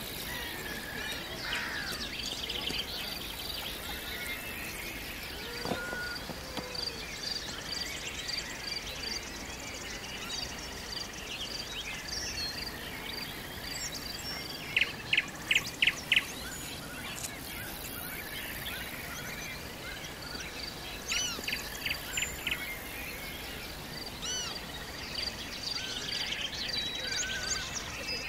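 Several songbirds chirping and calling over a steady background hiss, with one bird repeating a short high note again and again. The loudest calls are a quick run of five sharp chirps about halfway through and another run a few seconds later.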